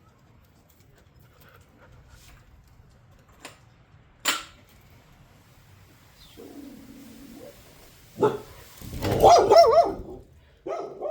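A few sharp metallic clinks of small parts, then from about eight seconds in a dog barking and yelping, loudest near the end.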